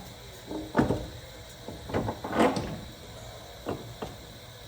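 Metal clunks and knocks from a car's front upper control arm being worked loose and maneuvered out of the suspension, a few separate knocks about a second apart.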